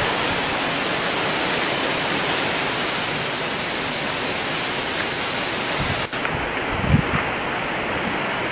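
Heavy rain pouring down in a strong wind, a steady loud hiss, with a brief dropout about six seconds in and a low thud just after.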